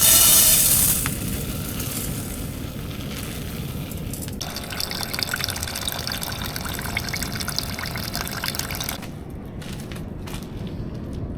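Liquid poured into a cooking pot: a steady pour of about four seconds in the middle, after a short loud rush at the start, over a constant low rumble.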